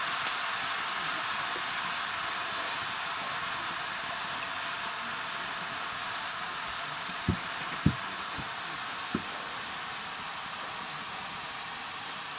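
Chopped mushrooms frying in a pan over a wood fire: a steady sizzle that slowly dies down, with a few sharp clicks a little past halfway.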